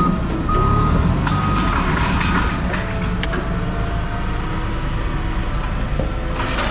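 Truck reversing alarm beeping at one steady pitch, two more beeps in the first two seconds before it stops, over the steady low running of the truck's engine.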